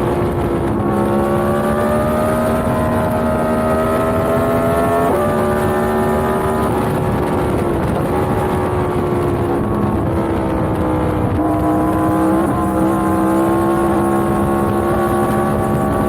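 Yamaha MT-10's crossplane inline-four engine running while riding, its pitch climbing slowly and shifting up and down in steps several times.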